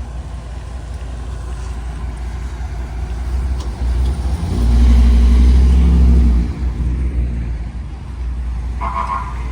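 A large vehicle's engine passes close by. It builds to a heavy rumble that is loudest midway, then fades. A steady high tone starts just before the end.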